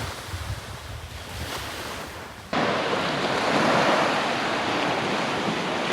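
Surf breaking and washing up the beach, with wind buffeting the microphone. About two and a half seconds in, the wash jumps suddenly louder and fuller.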